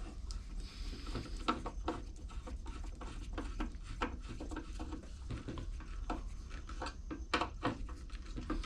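Irregular small clicks and taps of carburetor parts and screws being handled and fitted by hand, over a faint steady low hum.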